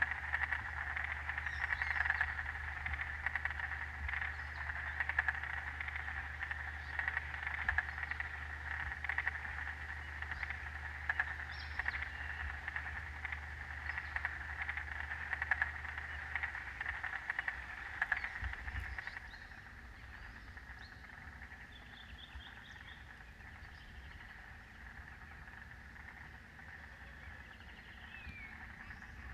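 A frog chorus in a wetland: a dense, rapidly pulsing mass of calls that drops noticeably about two-thirds of the way through. A few short bird chirps and calls come in over it near the end.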